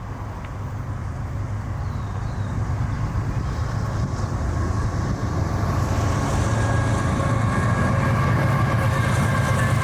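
CSX intermodal freight train approaching, the low drone of its diesel locomotives growing steadily louder as the train nears. Rolling wheel-on-rail noise builds with it, and thin whining tones appear in the last few seconds.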